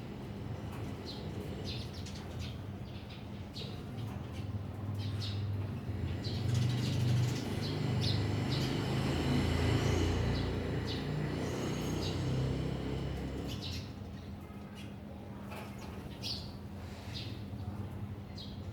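Small birds chirping in short, repeated high calls, with wingbeats among them, over a low rumble that swells through the middle and fades.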